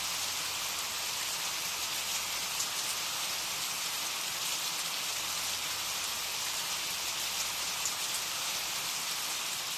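Steady rain falling on a surface: an even hiss with a few individual drops standing out now and then.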